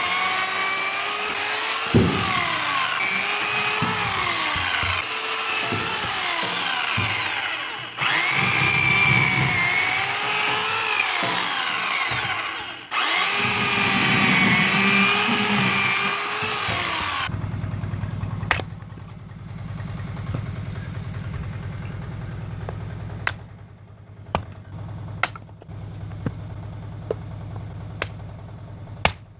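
A chainsaw cutting oak logs, its engine pitch dipping and rising as it bites into the wood, with short breaks about 8 and 13 seconds in. About 17 seconds in the saw stops and a quieter, steady low engine idle takes over, with scattered sharp knocks.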